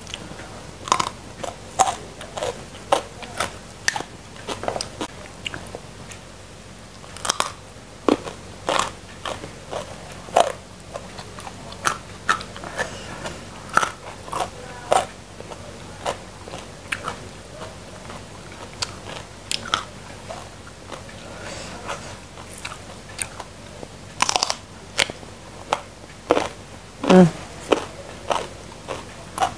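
Close-miked crunching and chewing of raw vegetables: sharp crisp bites about once or twice a second, with quieter chewing between, the loudest crunch near the end.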